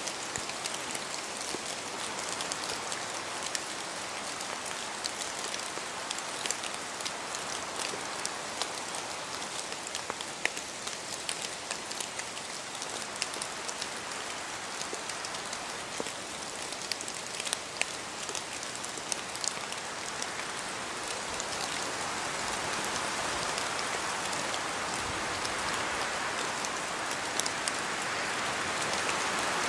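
Steady rain in a forest, with many individual drops ticking as they fall from the trees; the hiss swells slightly louder toward the end.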